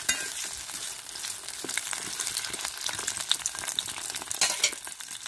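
Potato chunks sizzling as they fry in hot oil in a metal kadai, a steady hiss with scattered crackles. A few sharper clicks near the start and again near the end come from the spatula turning them against the pan.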